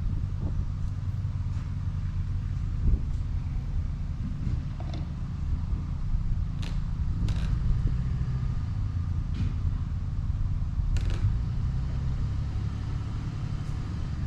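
A vehicle engine running with a steady low rumble, with a few sharp clicks over it about halfway through and again near the end.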